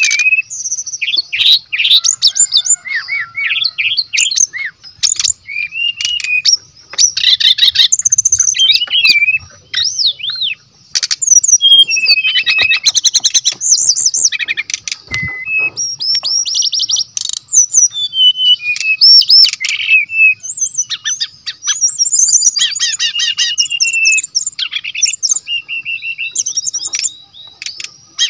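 Brown-chested jungle flycatcher singing continuously: a busy, varied song of rapid trills, chattering runs and whistled sweeps, with only brief pauses. A single dull knock about halfway through.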